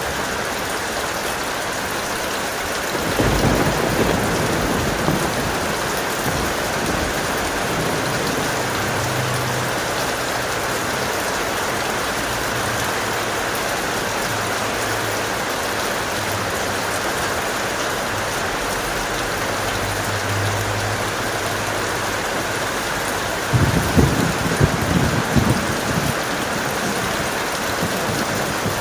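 Heavy rain falling in a steady hiss, with thunder: a clap about three seconds in that rumbles on for a while, and a second, crackling burst of thunder a little after twenty seconds in.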